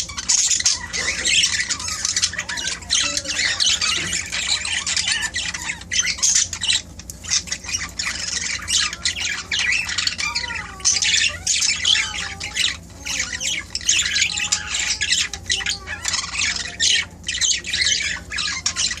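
Budgerigars chattering and squawking almost without pause, with warbling notes mixed in. A faint low steady hum runs underneath.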